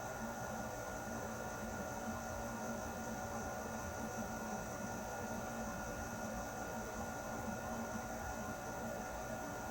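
Air conditioner running steadily: an even rush of air with a constant hum of several tones underneath.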